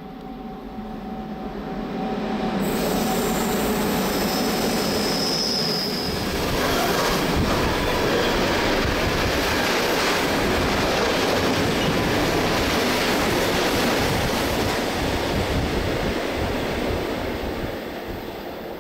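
A train running on the rails, its noise swelling about two seconds in, holding loud, and easing off near the end. A brief high wheel squeal comes around five seconds in.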